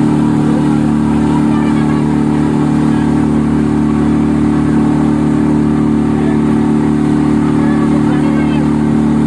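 Motorboat engine running steadily at a constant speed, an even hum with no change in pitch or level.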